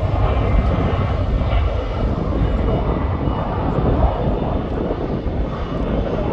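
Ryanair Boeing 737 jet engines at take-off power, a steady, dense rumble with a faint high whine early on.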